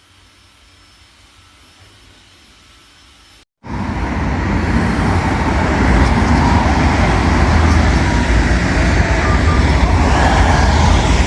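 A faint steady hum, then after a sudden cut about three and a half seconds in, loud city street noise with a heavy low traffic rumble.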